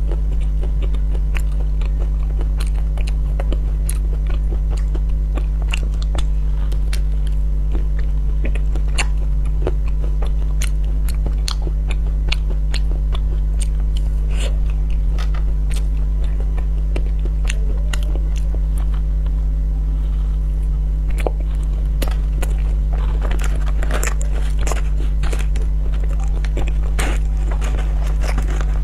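Close-up biting and chewing of an ice cream bar with a crunchy chocolate-cookie-crumb coating: irregular crisp crunches and crackles, several a second, thickest near the end. A steady low hum runs underneath.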